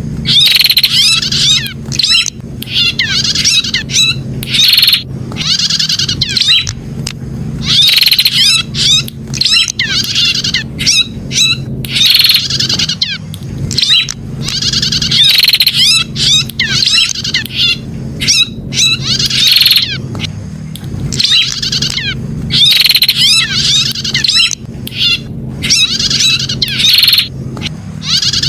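Prenjak (prinia) calling in loud, fast chattering phrases about a second long, one after another with short gaps, over a steady low hum.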